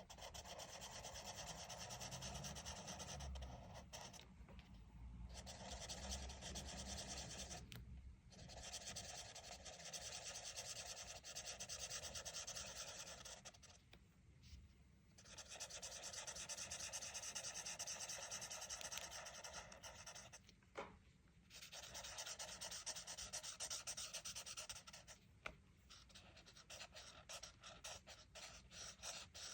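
Faint scratchy rubbing of a coloring tool shading back and forth on coloring-book paper, in long stretches broken by short pauses, ending in a run of quick short strokes.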